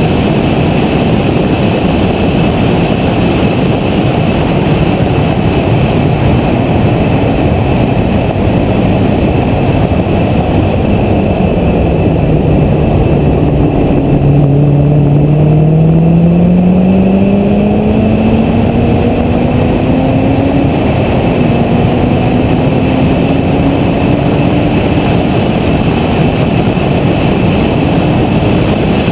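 Corvette ZR1's supercharged V8 running hard on track under heavy wind and road rush. About halfway through its pitch sinks as the car slows into a corner, then rises steadily as it accelerates out. A gearshift about two-thirds of the way through briefly drops the pitch before it climbs again.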